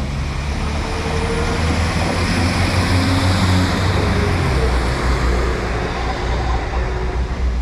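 Steady rumble of a passing vehicle, swelling about three seconds in and then easing off.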